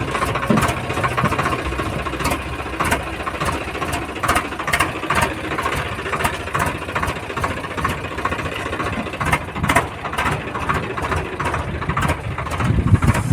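Mahindra 585 tractor's diesel engine running steadily, with frequent irregular clicks and knocks over it.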